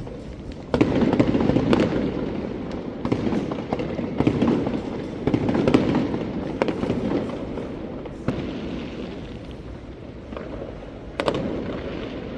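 Fireworks going off: a rapid, irregular run of sharp bangs and crackles starting about a second in, thinning out after about seven seconds, with one more loud bang near the end.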